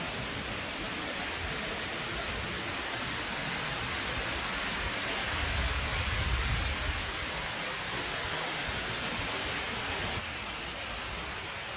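Steady rushing of a fast-flowing stream, Hardraw Beck, heard as an even hiss, with a low rumble swelling briefly around the middle. The sound drops a little about ten seconds in.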